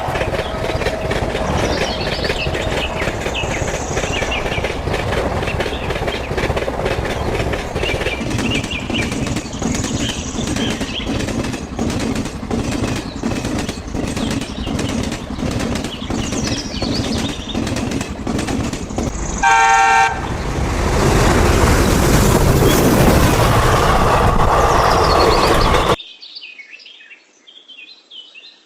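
Train running past: a steady rumble with rapid wheel clacks, a short horn blast about twenty seconds in, then a louder rush of noise that cuts off suddenly. Faint chirping of insects or birds follows near the end.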